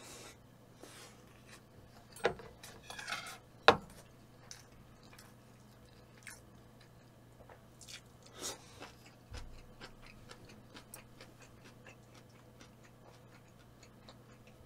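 A person chewing food close to the microphone, with small wet mouth clicks throughout and two sharp louder clicks about two and four seconds in.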